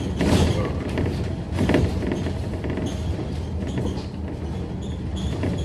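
Scania K310UD double-decker bus's diesel engine and running gear rumbling steadily, heard from inside the cabin. There are a couple of louder knocks or rattles just after the start and again under two seconds in.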